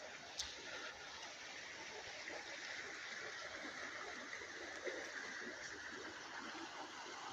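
Water in a stream flowing with a steady rush, with one sharp click about half a second in.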